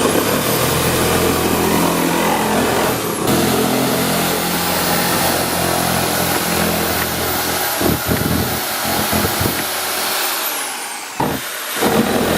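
Jigsaw cutting through a sheet of plastic, its motor running with a steady high whine; it stops briefly near the end and starts again.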